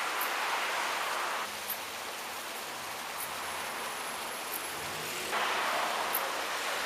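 Steady rushing noise of heavy thunderstorm rain and wind. It drops abruptly about one and a half seconds in and comes back just as abruptly about five seconds in.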